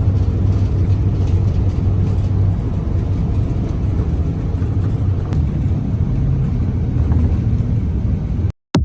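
Steady low engine rumble under a wash of noise, cutting off abruptly near the end.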